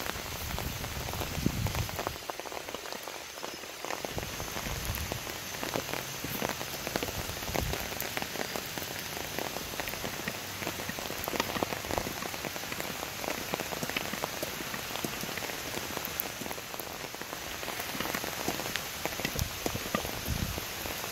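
Steady rain falling, with many separate drops ticking close to the microphone.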